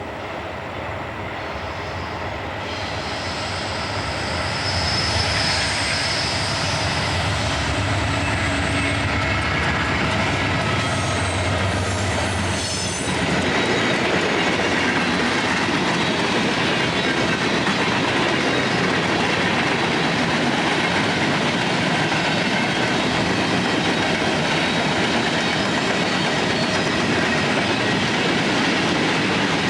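A train approaching and passing close by. It grows louder over the first few seconds, with thin high wheel squeal partway in. After about 13 seconds it settles into a steady rushing clatter of wheels over the rails as the cars roll past.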